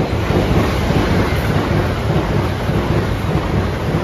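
High-speed passenger train passing through the station at speed: a loud, steady rushing roar of wheels on rails and air.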